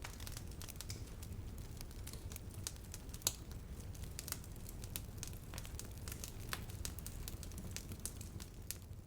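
Wood bonfire crackling: a steady low rumble of flames with irregular sharp pops and snaps, one louder pop about a third of the way in.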